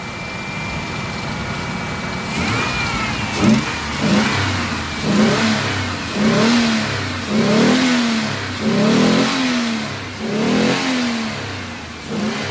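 A 1997 Ford Explorer's OHV V6 with a Flowmaster exhaust, running on gasoline. It idles at first, then from about three seconds in it is blipped through a string of about seven quick revs, each rising and falling in pitch, roughly one every second and a half.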